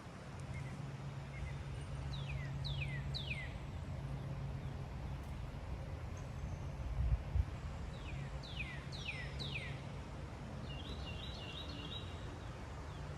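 Wild birds calling: a quick run of three clear whistles that slide downward, then four more about six seconds later, and a short chattering call near the end, over a low steady rumble.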